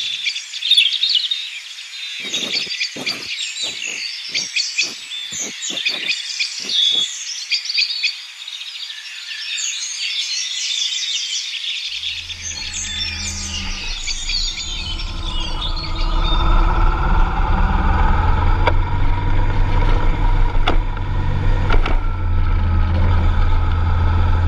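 Birds chirping, with about ten short scratches of a pen on paper. About halfway through, a Honda Transalp 650 V-twin motorcycle engine comes in running steadily, louder from a few seconds later.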